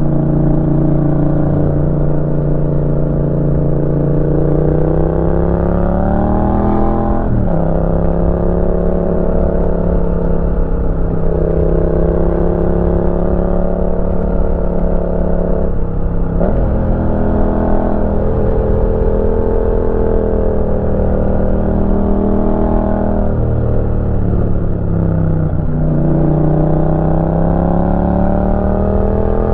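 Yamaha MT-07's 689 cc parallel-twin engine running through a Roadsitalia aftermarket exhaust while riding. The engine note climbs steadily as it accelerates, then drops sharply about three times.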